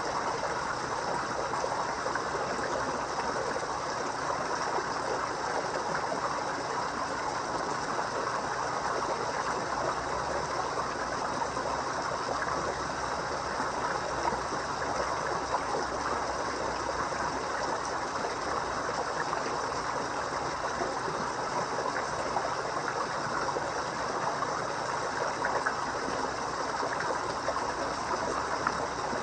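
Steady trickling and splashing of water running into a koi pond.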